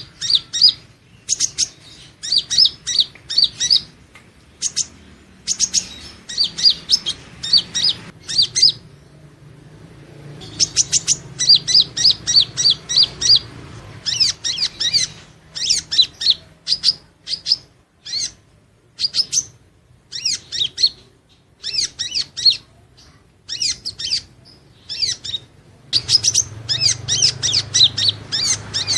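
Purple-throated sunbird (Leptocoma sperata) singing: rapid runs of high, thin, sharply up-and-down chirping notes in bursts a second or two long, separated by short pauses.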